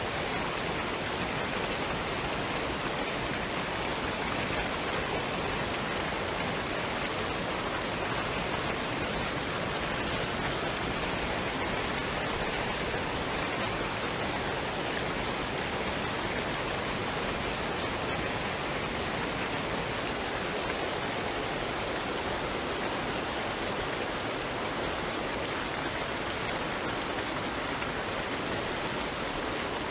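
Waterfall and stream water rushing in a steady, unbroken wash of noise.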